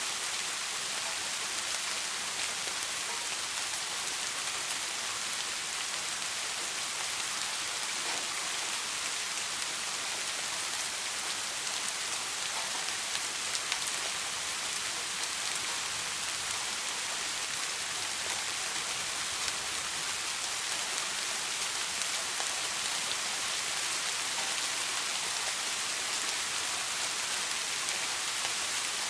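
Steady soft rain: a dense, even patter of drops falling on a surface, with no thunder heard.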